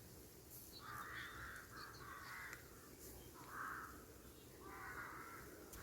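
Crows cawing: several harsh caws a second or so apart, with faint small-bird chirps higher up.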